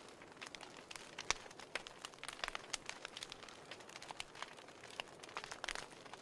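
Wood fire burning in a fireplace, crackling: irregular sharp pops and snaps over a soft hiss, the loudest pop about a second in.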